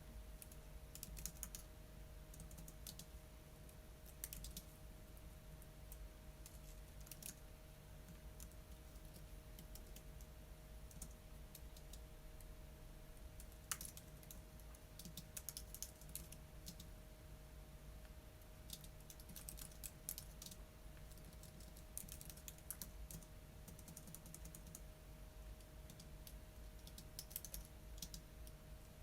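Typing on a computer keyboard: short runs of quick key clicks broken by pauses of a few seconds, over a faint steady hum.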